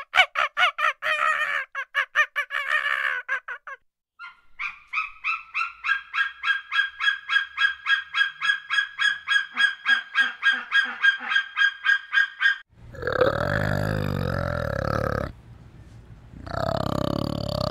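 A quick run of calls, then a long, even series of short, steady-pitched calls from a hawk-eagle, about four a second. From about thirteen seconds in come two long, rough grunting calls from a flanged male orangutan, with a short gap between them.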